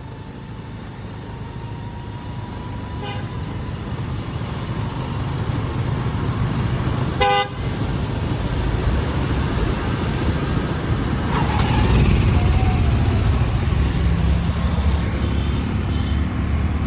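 Motor vehicle and road noise, a low rumble that grows steadily louder as a scooter pushes a stalled auto rickshaw up to speed for a bump start. A horn gives one short toot about seven seconds in.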